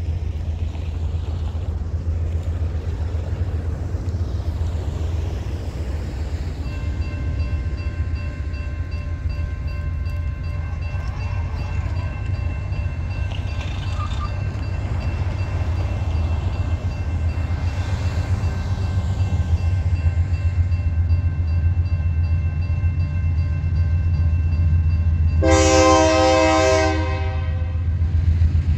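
Approaching diesel freight locomotives with a low steady rumble, faint steady tones coming in about seven seconds in. Near the end the lead locomotive's horn sounds one loud blast of about two seconds.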